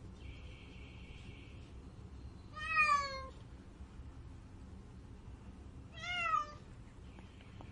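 Domestic cat meowing twice, about three seconds apart: two short meows, each under a second long, the first falling in pitch and the second rising then falling.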